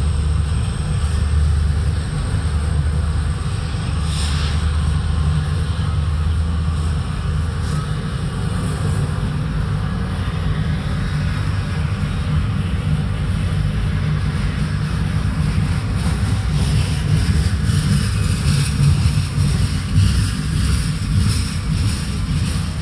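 BNSF freight train of coal gondolas rolling past close by: a steady low rumble with clattering wheels over the rail joints. The low drone of a diesel locomotive that has just passed fades out over the first eight seconds or so.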